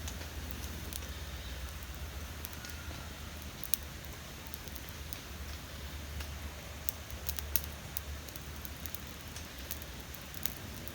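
Campfire crackling: scattered sharp pops at irregular intervals over a steady low rumble, with a louder pop about four seconds in and a few more around seven to eight seconds.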